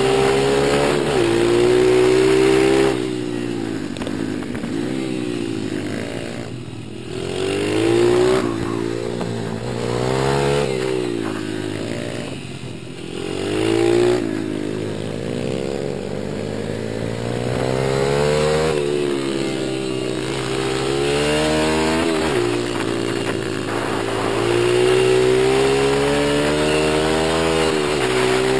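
Small single-cylinder four-stroke pit-bike engines being ridden, revving up and dropping back over and over, the pitch climbing and falling every few seconds.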